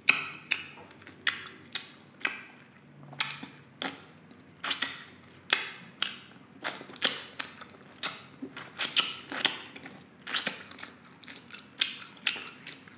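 Close-miked eating of glazed pork baby back ribs: biting and chewing meat off the bone, heard as irregular wet smacks and clicks, about one or two a second.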